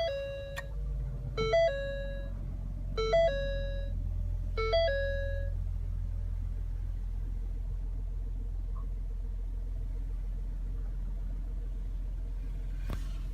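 The 2016 Ford Taurus SHO's 3.5L twin-turbo EcoBoost V6 idles with a steady low hum just after start-up, heard from inside the cabin. Over it, the car's dashboard warning chime sounds four times, about a second and a half apart, in the first five seconds. A single click comes near the end.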